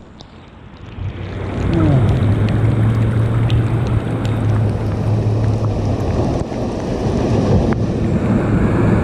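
Ocean surf breaking and washing in, with wind buffeting the microphone. The surge builds up over the first couple of seconds, and a steady low drone, like a distant motor, runs through the middle.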